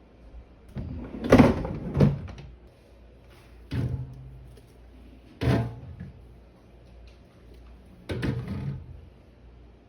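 A series of clunks and knocks from a refrigerator's drawers, shelves and contents being moved about during cleaning, about six separate bumps with the loudest two a second or two in.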